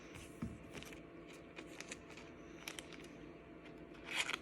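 Pokémon trading cards being handled: faint scattered clicks and rustles of card stock, with a louder brushing slide near the end.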